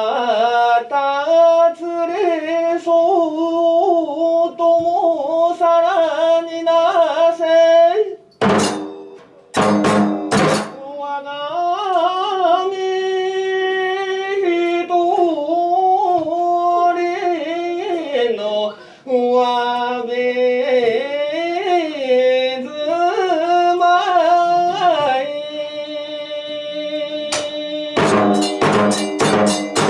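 Kagura music: a drawn-out sung chant on long wavering notes, broken about nine seconds in by three sharp percussion strikes. Near the end a fast run of drum strokes begins.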